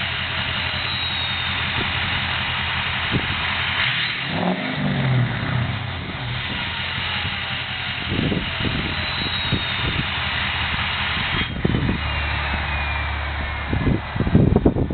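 Ford F-250's 6.0 L Power Stroke V8 turbodiesel with a straight-piped 4-inch exhaust, idling with a brief rev about four seconds in. The turbo whistles, a high tone that slides downward as it spools down, twice. A few sharp knocks near the end.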